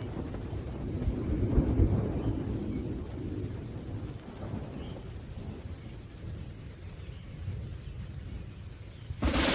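Rolling thunder rumbling over steady rain, swelling about a second and a half in and then dying away. Near the end a sudden sharp thunderclap breaks in.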